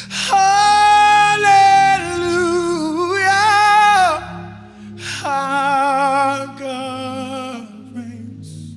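A worship singer holding two long sung notes with vibrato, the first about four seconds long and the second shorter, over soft sustained instrumental chords.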